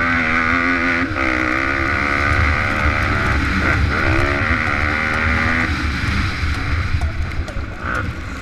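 Pit bike engines running hard, their pitch rising and falling with throttle and gear changes. The loudest high engine note drops away about six seconds in, leaving choppier revving.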